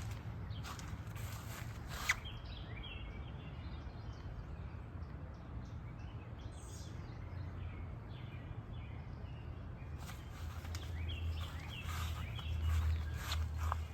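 Outdoor garden ambience: small birds chirping on and off, over a steady low rumble that grows louder in the second half. There is one sharp click about two seconds in.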